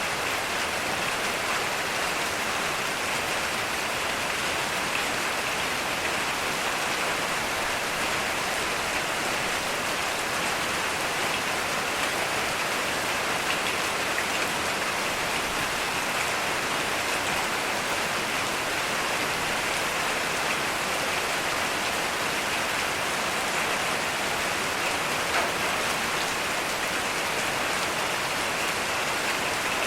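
Heavy rain falling steadily, a dense even hiss of drops on surfaces with no break or thunder.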